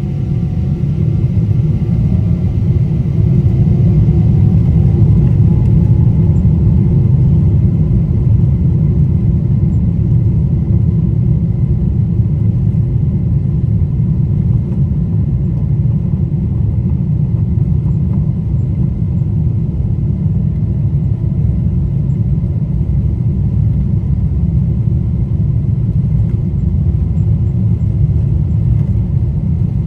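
Boeing 777-200 airliner's jet engines at takeoff power: a loud, deep, steady rumble that builds over the first few seconds and then holds.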